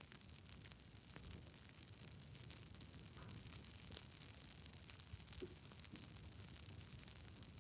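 Campfire burning: wood crackling with frequent small sharp pops over a faint steady hiss.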